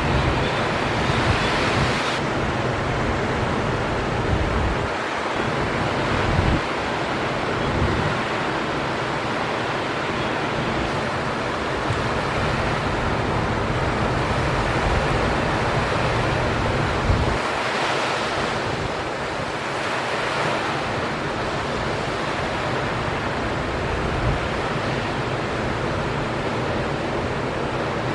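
Ocean surf: a steady wash of big waves breaking, with wind buffeting the microphone.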